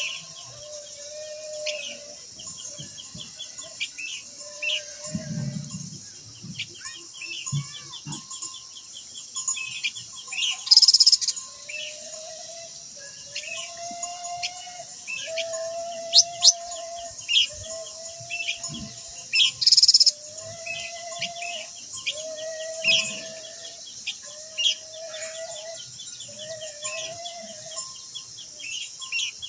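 Birds singing over a steady high insect hiss: repeated level whistled notes, each about a second long, mixed with many short high chirps and a fast ticking trill. There are two brief loud bursts, about 11 and 20 seconds in.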